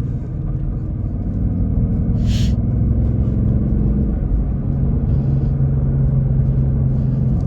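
A 2024 Ford Mustang GT's 5.0-litre Coyote V8 running at gentle, part-throttle cruise with a steady low exhaust drone, heard from inside the car. Its pitch shifts slightly a couple of times, and there is a brief hiss about two and a half seconds in.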